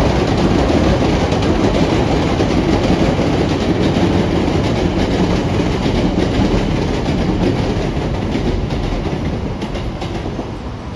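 A train running past, its wheels clacking over the rail joints, with the sound easing off over the last couple of seconds.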